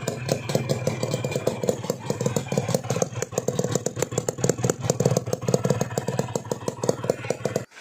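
Motorcycle engine running through a gutted 'bobokan' muffler with its baffles removed, giving a loud, rapid, even exhaust beat. It cuts off abruptly near the end.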